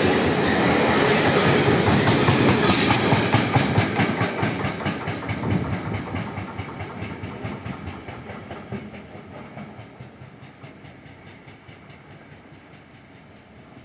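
Freight train of container flat wagons passing, the wheels clacking in a fast, even rhythm over the rail joints. The clatter fades steadily as the last wagons pull away.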